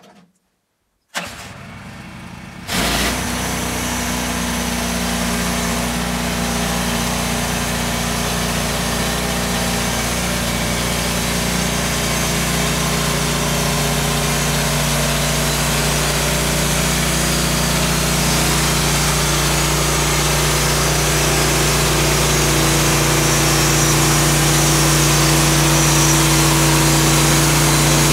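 A small petrol engine, most likely the sawmill's, starting: a weaker sound about a second in, then it catches and runs steadily at a constant pitch, getting slightly louder over time.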